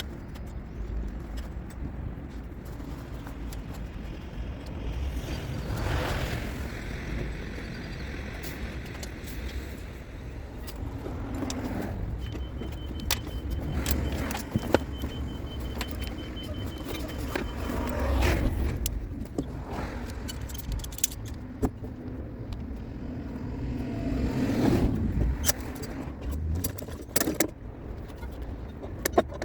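Steady traffic rumble with vehicles passing at about six, eighteen and twenty-five seconds in, and scattered sharp metallic clinks that come thicker near the end.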